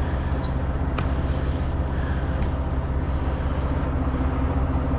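Heavy truck diesel engine idling steadily with a low, even rumble, and one light click about a second in.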